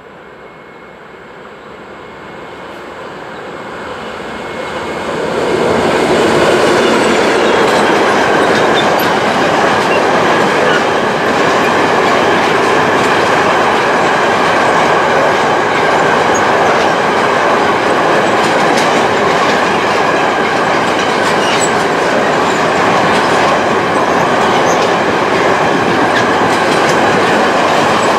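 Freight train of high covered wagons approaching and then passing close by at speed: the rumble builds for about six seconds, then holds as a steady loud roll of steel wheels on rail with a faint clickety-clack.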